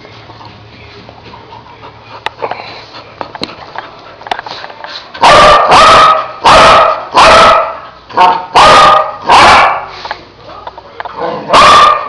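A pet dog barking. The first five seconds are quiet apart from faint clicks. Then comes a run of about eight loud, sharp barks, bunched between five and ten seconds in, with one more near the end.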